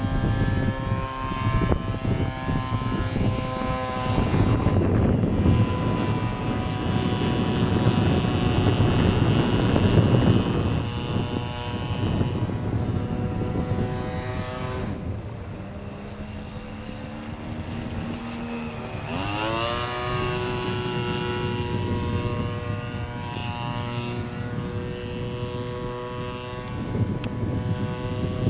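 Single-cylinder two-stroke Turnigy 30cc gas engine of a Yak-54 RC model airplane running in flight, its propeller note changing pitch with throttle and passes. It is throttled back to a low note for a few seconds past the middle, then opened up sharply with a quick rising whine about 19 seconds in.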